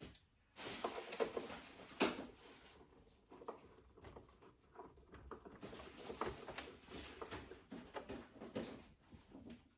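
Irregular clicks, knocks and scraping of parts being handled while working on an espresso machine, with a sharper knock about two seconds in.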